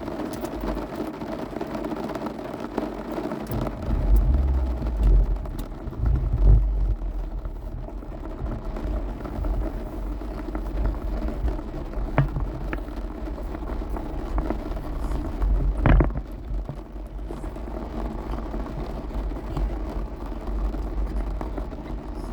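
Storm wind gusting against the microphone: a steady rushing with heavy low buffeting that swells twice, and a couple of sharp knocks.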